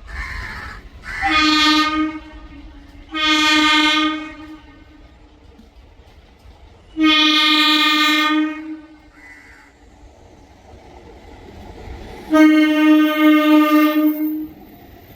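Indian Railways train horn sounding four blasts: two of about a second each, then two longer ones of roughly one and a half and two seconds, each a steady pitch over a low rail rumble.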